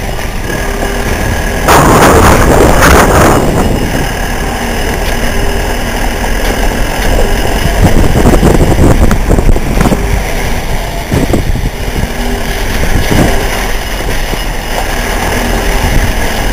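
Motorcycle engine running, with a louder rough stretch of noise lasting about two seconds shortly after the start.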